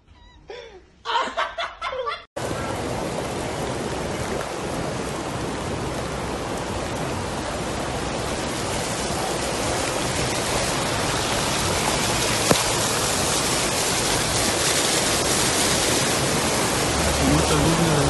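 Brief laughter and voices, then a sudden cut to a steady rushing noise of rain and wind, heard from a vehicle on a road in a storm, slowly growing louder.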